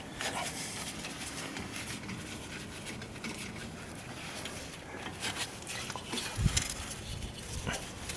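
Light clicks and taps from hand work on a car's brake assembly, with one dull thump about six and a half seconds in.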